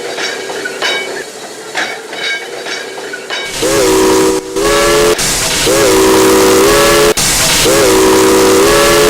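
Steam locomotive's chime whistle blown in three long blasts about two seconds apart, each a chord that bends up briefly at the start, over loud steam hiss; the first few seconds are quieter, before the whistling starts.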